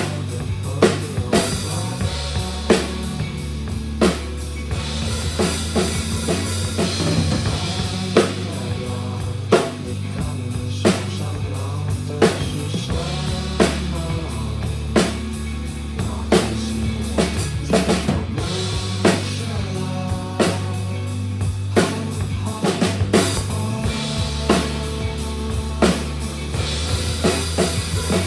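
Drum kit played in a steady rock beat, kick and snare strokes over the song's recorded band track of bass and guitars.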